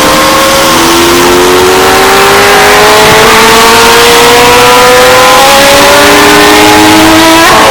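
Historic Group C race car engine, very loud, accelerating hard with its note climbing steadily through a gear. There is a gear change near the end.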